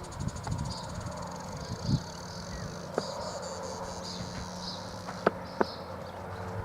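Insects chirping steadily in a high pulsing trill, over a low steady hum, with three sharp clicks about three, five and five and a half seconds in.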